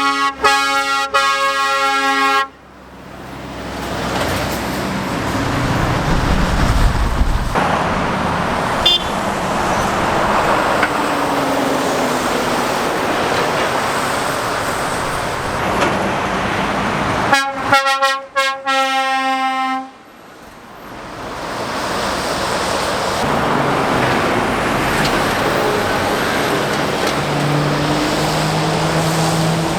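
Lorry air horn sounding as trucks pass: a few short toots then a held blast at the start, and again about 17 seconds in. In between, heavy traffic goes by with tyre and engine noise, including a deep engine rumble around six seconds in.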